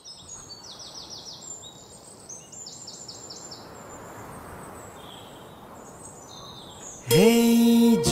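Birds chirping in quick repeated trills over a steady outdoor hiss. About seven seconds in, a much louder pitched tone slides up and holds for about a second, then stops.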